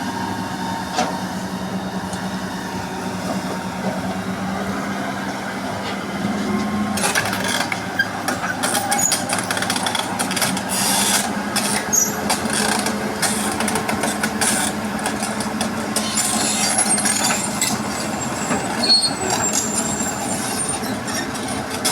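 Heavy diesel excavator running steadily. From about seven seconds in, sharp metallic clanks and squeaks join in as the machine moves over the freshly laid track to compact it.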